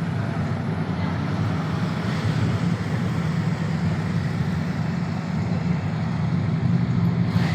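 Motorcycle engines running steadily, a continuous low rumble.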